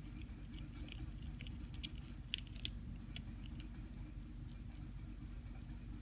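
Baby hamster chewing a cabbage leaf: quick, small crisp crunches and nibbling clicks, busiest in the first half, with two louder bites about two and a half seconds in.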